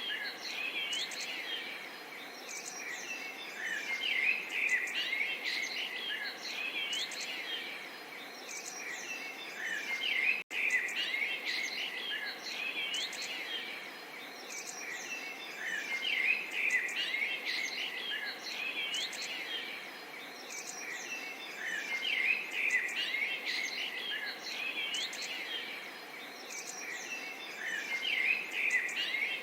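A chorus of small songbirds chirping and twittering continuously, many quick rising and falling calls overlapping, over a soft steady murmur of flowing water. The sound cuts out for an instant about ten seconds in.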